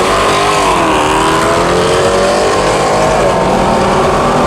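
V8 pickup truck engine accelerating hard at full throttle without nitrous, its pitch climbing, dropping at a gear shift about a second in, then climbing again.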